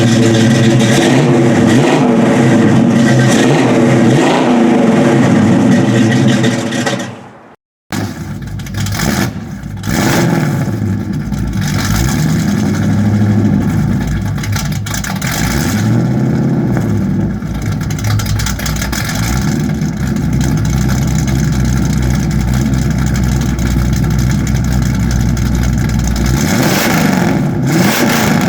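Chevy 350 small-block V8's exhaust rumbling and being revved repeatedly, each blip rising and falling in pitch. About seven and a half seconds in the sound cuts out abruptly for a moment, then the engine comes back a little quieter and is revved again several more times.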